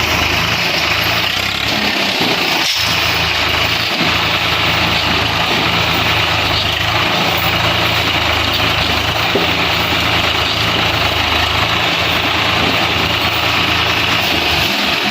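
Swaraj tractor's diesel engine idling steadily, with a constant hiss over it.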